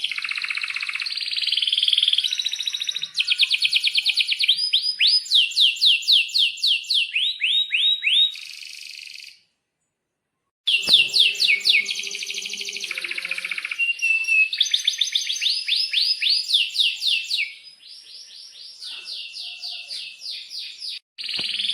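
Domestic canary singing long, rapid trills and runs of quickly repeated rising notes, high-pitched. The song stops for about a second near the middle and comes back, softer for a few seconds toward the end.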